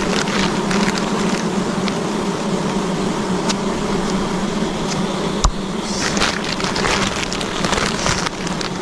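A swarm of wild honey bees buzzing as a steady, even hum under a constant hiss with scattered ticks; a single sharp snap about five and a half seconds in.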